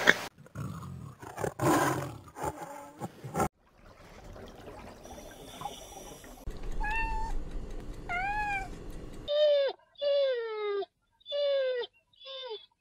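An animal calling in short whining cries that fall in pitch: two calls, then four more in quick succession near the end.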